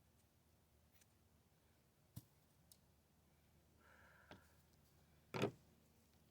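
Near silence with a few soft clicks from cutting and handling a duck carcass, the loudest about five seconds in.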